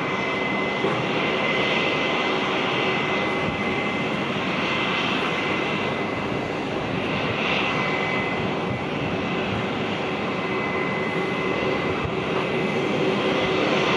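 Jet airliner engines running steadily: a loud rushing noise with a high, steady whine over it, growing slightly louder near the end.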